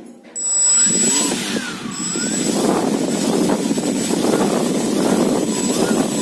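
Brushless-motor table fan running, its air rushing loudly past the microphone, with a faint high steady whine; it starts suddenly about a third of a second in.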